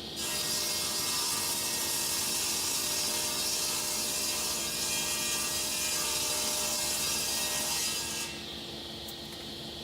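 A woodworking machine cutting a Marri hardwood board: the steady hum of the machine running free jumps to a loud, dense cutting noise for about eight seconds as the board is fed through, then drops back to the free-running hum near the end.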